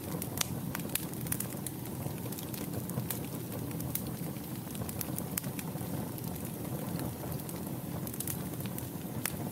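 Fireplace fire burning with a steady low rumble of flames and frequent sharp crackles and pops, a few louder pops in the first second or so and another near the end.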